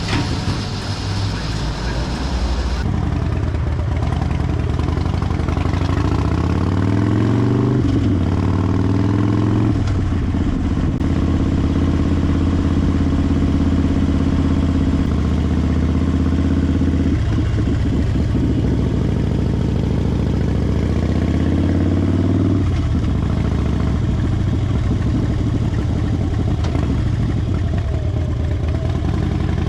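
Harley-Davidson Fat Bob's V-twin engine pulling away and accelerating through the gears. The pitch climbs, then drops suddenly at each shift, with stretches of steady running between.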